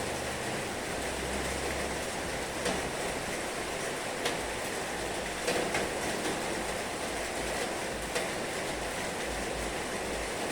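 Heavy rain falling steadily, with a few sharper, louder drop hits standing out now and then.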